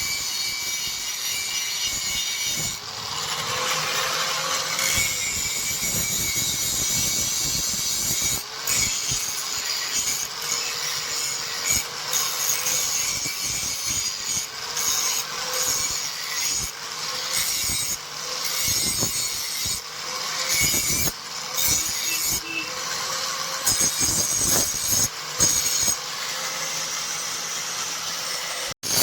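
Continuous rasping of steel being shaped by abrasion, with a faint steady whine underneath and irregular breaks in the noise. It cuts off abruptly just before the end.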